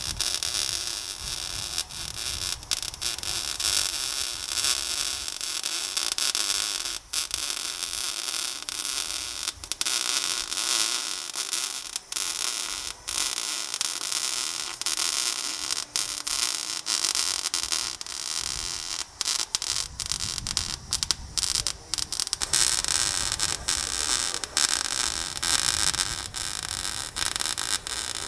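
Welding on steel truck-frame metal: a steady crackling hiss with frequent brief breaks.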